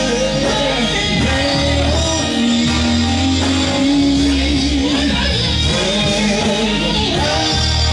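Live gospel band music: a singer's held, wavering notes over guitar and a steady bass line.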